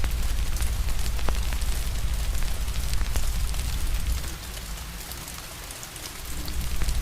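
Steady rain with a crackling fire, scattered sharp pops and snaps over the rain's hiss. A deep low rumble under it fades out about four seconds in and returns near the end.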